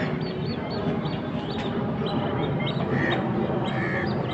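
Birds chattering and squawking in short, repeated calls, with a few louder squawks, over a steady background noise.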